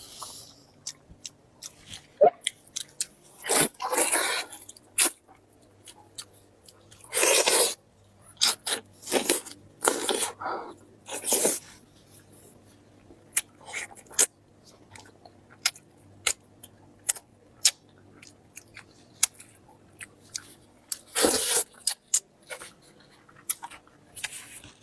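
Close-miked chewing and crunching of chicken, with many short wet mouth clicks and several louder, second-long bursts of crunching.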